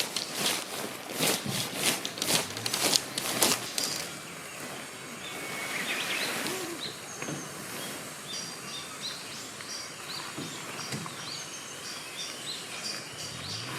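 A quick series of crunching knocks, about three a second, for the first few seconds, then songbirds chirping over a quiet woodland background.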